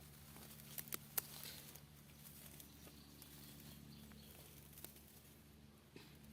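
Quiet garden weeding sounds: a few sharp clicks and light rustling as weeds are pulled and soil is worked, over a faint low steady hum.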